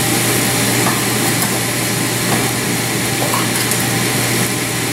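Frying pan of ground beef and vegetables sizzling, with a few faint clinks, over a steady low hum.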